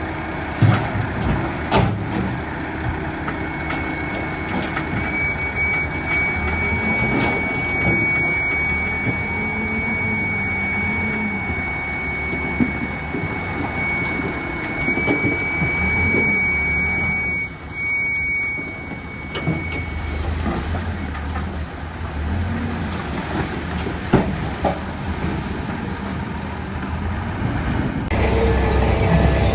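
Heavy construction machinery running steadily. A steady high whine is held from a few seconds in until about two-thirds of the way through, with occasional knocks.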